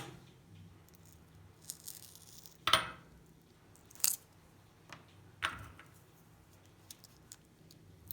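Dishes and glassware being handled: a soft rustle, then three separate knocks and clinks a little over a second apart, the first the loudest, followed by a few light ticks.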